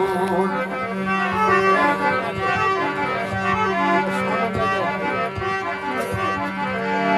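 Harmonium playing a melodic interlude over a steady held drone note, between sung verses of a Rajasthani devotional bhajan.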